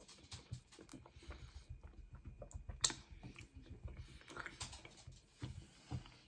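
A person chewing pizza crust: many small, irregular crunches and mouth clicks, with one sharper click about three seconds in.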